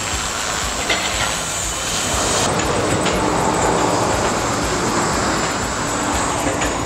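Storm 450 electric RC helicopter in flight: the steady high whine of its brushless motor and the whirr of the spinning rotor blades. The highest part of the whine fades about two and a half seconds in.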